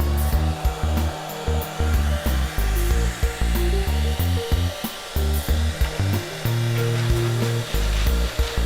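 Hair dryer running continuously, blowing air at a pile of paper sheets, under background music with a stepping bass line and a regular beat.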